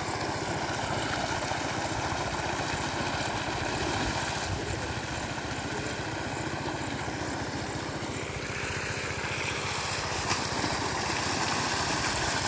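Z175F single-cylinder air-cooled diesel engine running steadily, driving an irrigation water pump, with an even fast firing beat.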